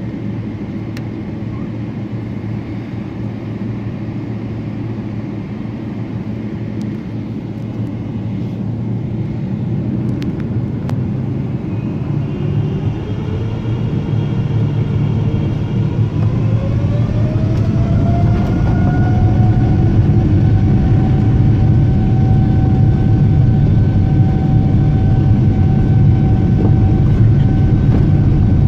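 Boeing 777-300ER's GE90 jet engines spooling up, heard inside the cabin. A steady low rumble is joined, about halfway through, by a whine that rises in pitch and then holds steady while the overall noise grows louder.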